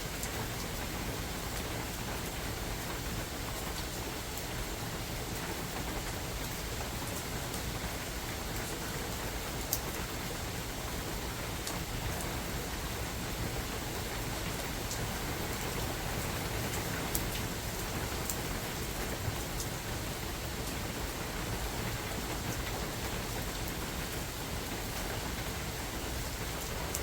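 Steady rain falling in a forest, an even hiss with a few sharper drops standing out now and then.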